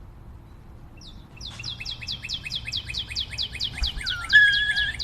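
A bird chirping: a fast run of short, falling chirps, about six a second, then a held, steady whistle near the end.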